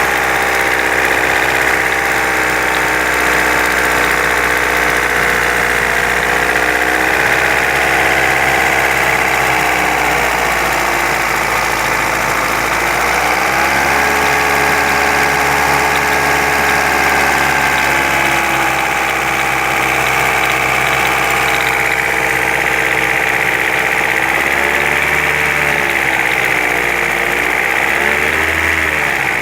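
Car engine idling steadily, its speed wavering slightly up and down about ten seconds in and again near the end.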